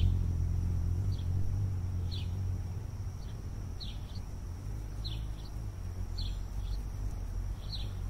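Small bird chirping: short, high, downward-sliding notes about once a second, sometimes two in quick succession, over a steady low rumble and a thin, steady high whine.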